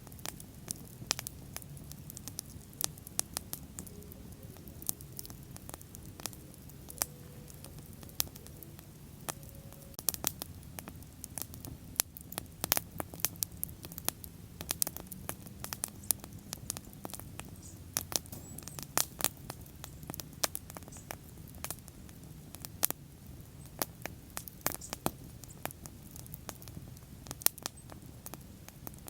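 Wood bonfire burning, with frequent irregular sharp crackles and pops over a steady low sound of the flames.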